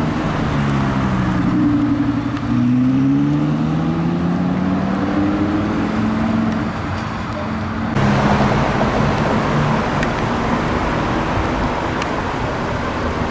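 Car engine in street traffic, its note dipping about two and a half seconds in and then climbing steadily as the car accelerates. About eight seconds in the sound changes abruptly to a steadier engine note over louder traffic noise.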